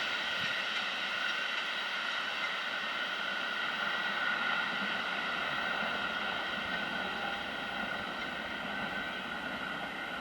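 Passing train receding after its last wagon has gone by: a steady, slowly fading rumble with a high ringing hum from the rails.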